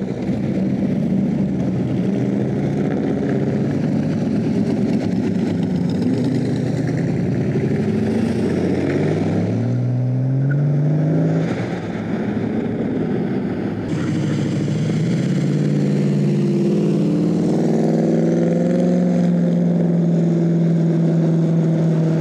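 Car engines revving and accelerating as cars drive off. The engine note rises sharply about ten seconds in, dips briefly, then settles into a steady, held note in the last few seconds.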